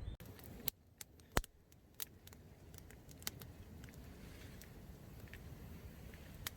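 Wood campfire crackling: irregular sharp pops and snaps, a few a second at most, over a faint low background.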